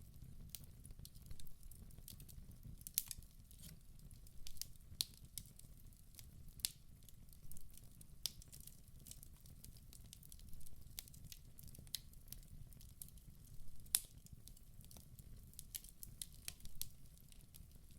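Wood fire burning in a fireplace: irregular sharp crackles and pops, several a second, over a faint low rumble, with one louder pop about fourteen seconds in.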